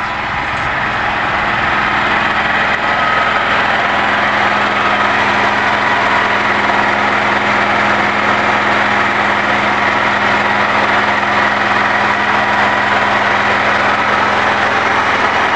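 Small engine-generator running steadily under load on wood gas, fitted with a repaired muffler; it grows a little louder over the first few seconds, then holds steady.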